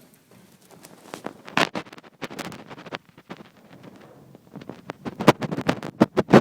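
A string of irregular knocks and crunches, one loud pair about a second and a half in and a dense run of them over the last second and a half.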